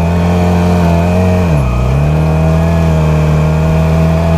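Motorcycle engine running under way; about one and a half seconds in the revs dip sharply, as in a gear change, then climb back and hold steady.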